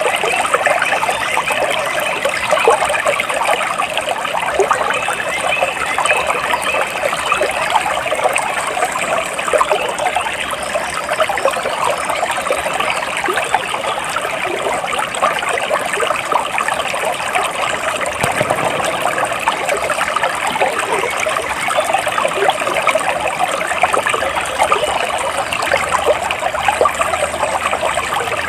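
Flowing water, as of a small stream, running steadily with a dense patter of small splashes.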